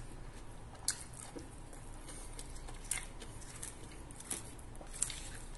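A person chewing a mouthful of fresh spring roll (lumpiang sariwa) close to the microphone, with a few short, soft wet clicks and smacks of the mouth scattered through.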